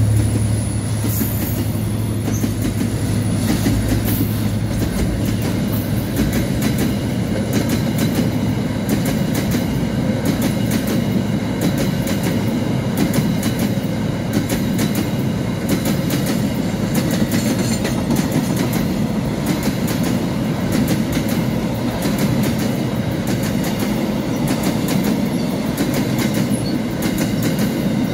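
Freight train of container and empty flat wagons rolling past close by: a steady rumble of steel wheels on rail with a continuous run of clicks as the wheels cross rail joints. A low engine hum from the passing diesel locomotive stops about a second in.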